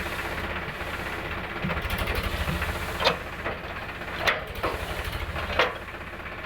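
Powertrac Euro 50 tractor's three-cylinder diesel engine running with a steady low throb. Three sharp knocks come about a second apart in the second half.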